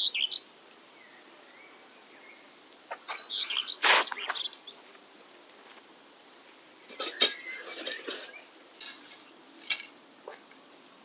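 A few short bird chirps, with scattered sharp clicks and light clinking, heaviest in the second half, as fishing tackle is handled.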